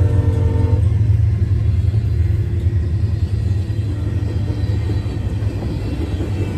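A locomotive's multi-chime air horn ends its note about a second in. The steady low rumble of the passing train continues.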